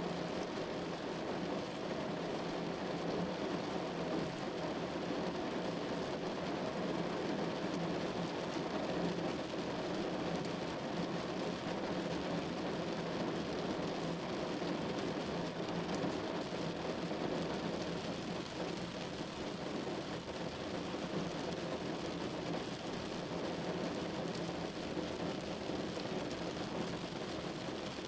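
Steady patter of precipitation falling on a surface, even and unbroken.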